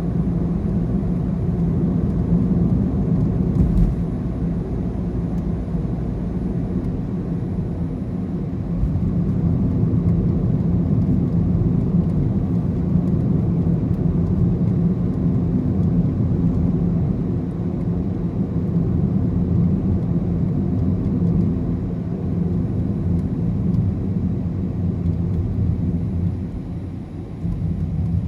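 Car driving along a road: a steady low rumble of engine and tyre noise, dropping briefly near the end.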